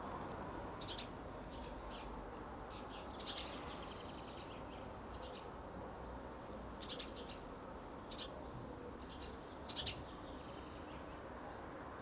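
Small garden birds chirping: short, high calls in scattered little bursts, the loudest near the end, over a steady low background noise.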